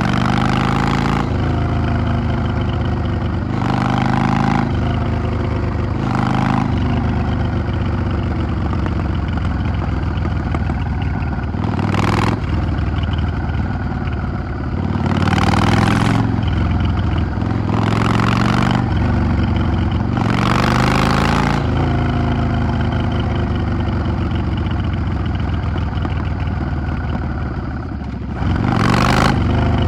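Yamaha XVS 650 air-cooled V-twin engine on a moving motorcycle, running throughout with repeated throttle openings and closings. Short surges of about a second come every few seconds as the engine revs up and drops back.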